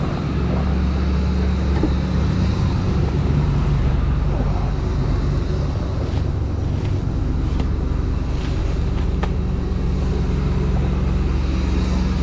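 Truck engine running, a steady low hum with a few faint clicks.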